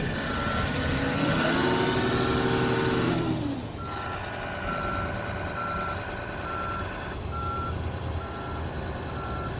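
Heavy equipment's diesel engine running. About a second in it revs up, holds high, then drops back to idle about three and a half seconds in, as the throttle is worked from the machine's keypad. A backup alarm beeps steadily, about one and a half beeps a second.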